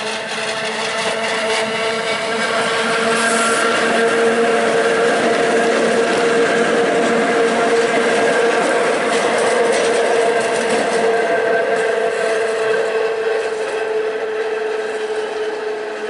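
The Train Jaune, a metre-gauge electric train, running into the station: a steady whine of its motors and running gear over the rumble of the wheels. It grows louder over the first few seconds, holds, then eases near the end.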